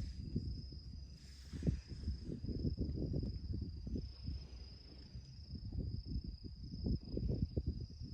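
Gusty wind buffeting the microphone in uneven surges, with a steady high-pitched insect-like drone running beneath it.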